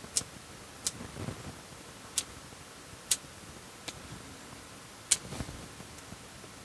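Pruning shears snipping small conifer shoots, about six sharp clicks at uneven intervals, the loudest about five seconds in.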